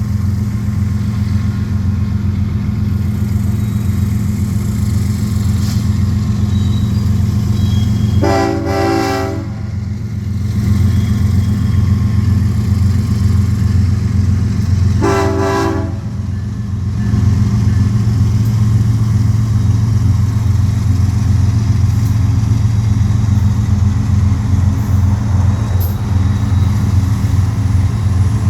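Diesel freight locomotives running with a heavy, steady low engine sound, while the lead locomotive's air horn sounds two blasts, each a chord of several notes lasting about a second and a half, about eight and fifteen seconds in.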